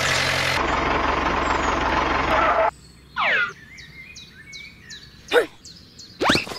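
Dubbed tractor engine sound running steadily, then cutting off abruptly a little before halfway. After that, a few short whistling glides, ending in a quick rising sweep, with faint high chirps between them.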